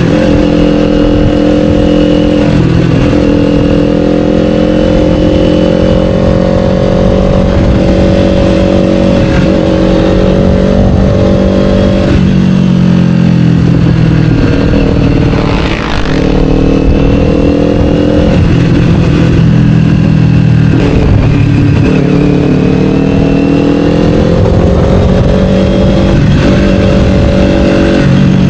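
Kawasaki Ninja 500's parallel-twin engine through an Akrapovic slip-on exhaust, under way at steady revs; a few times the revs drop sharply and then climb again.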